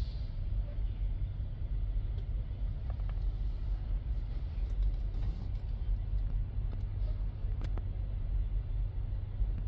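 Steady low rumble of an idling semi truck's engine, with a few faint clicks.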